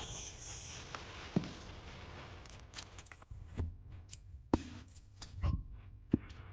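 Quiet food-preparation handling sounds: about five short, scattered clicks and soft knocks over a low background hum.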